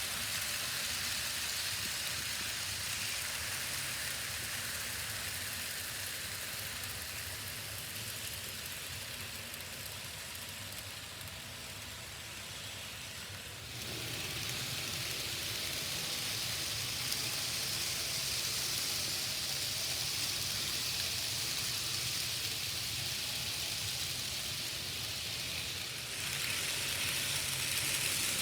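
N scale model trains running on the layout: a steady hissing whir of small motors and wheels on the rails, growing louder about halfway through and again near the end.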